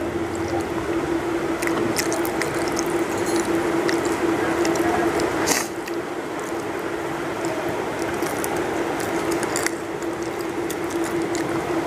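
Close-miked eating sounds: chewing and crunching on chicken pieces and bones by hand, with many small wet clicks and crackles and one louder crunch about halfway through, over a steady low hum.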